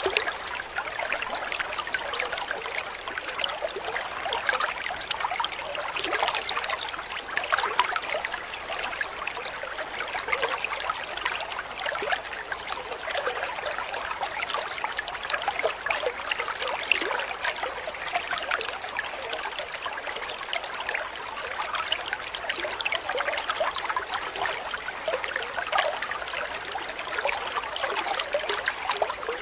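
Water trickling and splashing steadily, like a small stream, with a dense patter of little droplet sounds.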